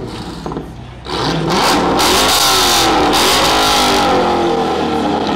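Dodge Challenger SRT's V8 engine revving. The sound jumps up about a second in, and the pitch climbs and then falls away.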